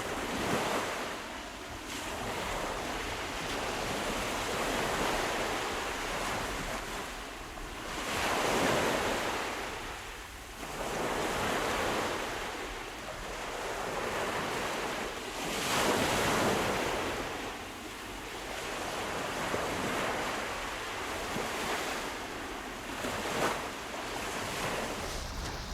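Sea waves breaking and washing in, a steady rush that swells and fades in slow surges every several seconds, with the biggest surges about a third and two thirds of the way through.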